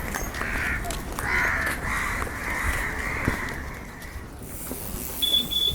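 Crows cawing, a run of harsh repeated caws over the first four seconds, with a brief high-pitched ring near the end.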